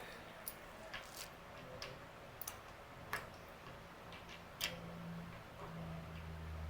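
Scattered light clicks and taps, irregularly spaced, from hand work on an e-bike during a fork removal. A low steady hum comes in a little past the middle.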